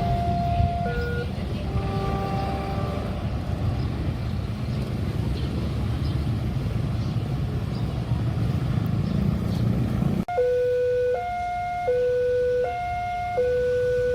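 Railway level-crossing warning alarm sounding its alternating two-note signal over a heavy low rumble of passing traffic or a train. About ten seconds in the rumble cuts off and the two-note alarm rings out loud and clear, switching between a high and a low note about every three-quarters of a second.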